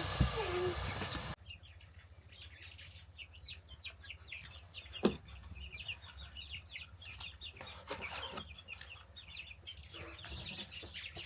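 Chicks peeping, many short high chirps in quick succession. A louder noisy stretch stops abruptly about a second in, and there is a single knock in the middle.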